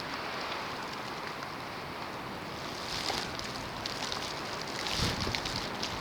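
Wind of a snowstorm blowing steadily, swelling in gusts about three and five seconds in, with fine ticking of driven snow hitting.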